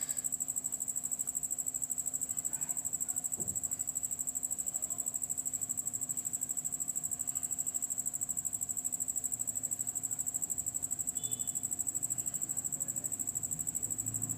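A cricket chirping continuously: a shrill, high trill in rapid, even pulses, over a faint steady low hum.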